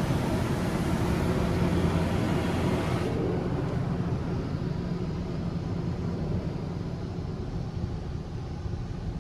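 Istobal M1 car wash machine spraying the car, heard from inside the car: a hiss of water spray that cuts off suddenly about three seconds in, leaving the machine's steady low hum.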